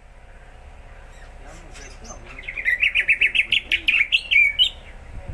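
Cucak ijo (green leafbird) singing: after about two seconds of faint sound, it gives a loud, fast run of repeated chirps, about six or seven a second. The run lasts some two seconds and ends with a few higher, drawn-out notes.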